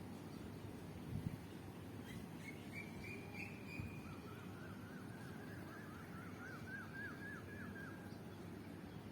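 A bird singing: a short high trill about two seconds in, then a quick run of repeated chirps, about three a second, growing louder for some four seconds. A steady low background rumble lies under it, with a couple of faint knocks.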